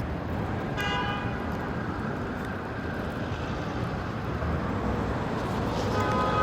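City street traffic noise with a short car-horn toot about a second in, and another horn sounding near the end.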